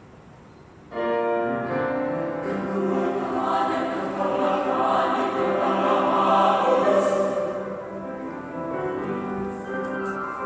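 Youth church choir singing sustained chords in several parts. The voices enter together about a second in after a brief hush, swell to their loudest in the middle, then ease off.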